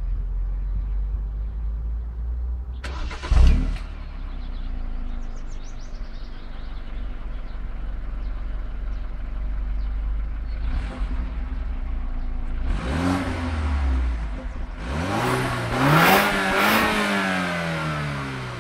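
BMW 328i Touring (F31) 2.0-litre turbocharged four-cylinder engine starting about three seconds in with a brief loud flare, then settling to a steady idle. Near the end it is revved twice, first briefly and then higher and longer, the pitch rising and falling each time.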